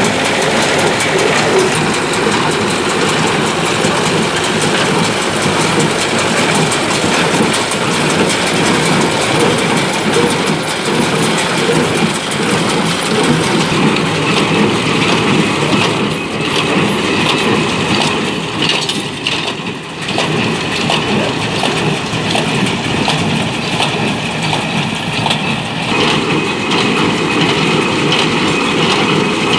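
Ford 5000 tractor and a New Holland BC5060 square baler running together: the engine's steady drone under the baler's rhythmic mechanical clatter, with the tone shifting partway through.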